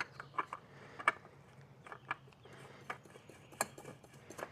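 Faint, irregular clicks and light handling noise as a new oil filter is started onto its threaded mount by hand, over a faint steady low hum.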